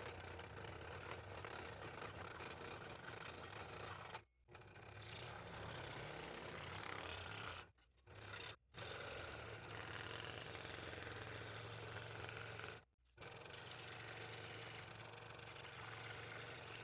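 Scroll saw running and cutting layered wood for fretwork: a steady low motor hum with the scraping rasp of the blade through the wood. The sound drops out briefly four times.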